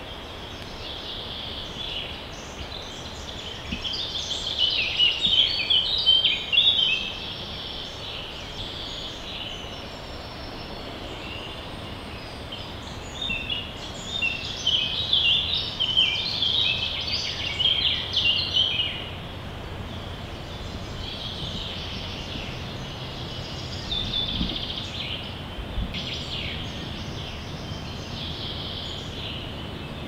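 Birds singing, with two spells of rapid chirping and fainter calls later, over a steady low background noise.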